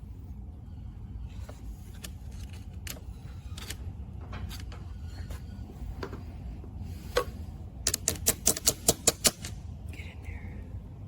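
Hand tools working on small metal parts: scattered light clicks, then a quick run of about eight sharp clicks, roughly six a second, near the end, over a steady low hum.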